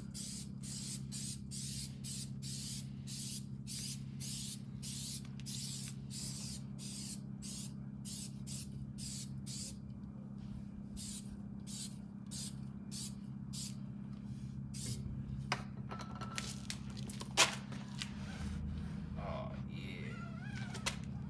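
Hand trigger spray bottle of detailing product being pumped in rapid squirts, about two a second, for most of the stretch. Then come a few scattered clicks and one sharp click near the end.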